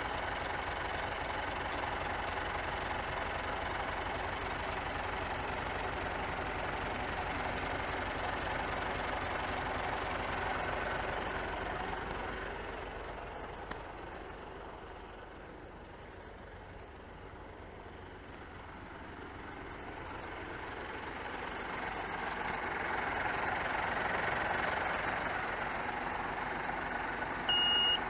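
Isuzu Giga truck's straight-six turbo diesel idling steadily and quietly. It grows fainter in the middle and louder again, and a reversing beeper starts up near the end.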